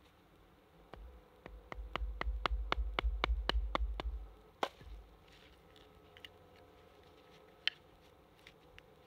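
Rapid blows on wood, about four a second for some three seconds, then one harder knock and a few light taps: a wooden stake being worked by hand into a tent peg.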